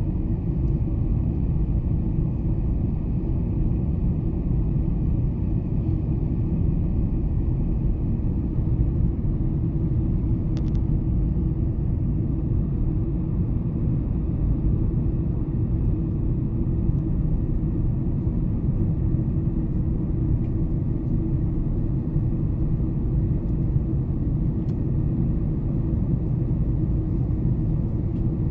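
Boeing 747-400 cabin noise heard from inside the cabin: a steady low rumble of engines and airflow, unchanging throughout.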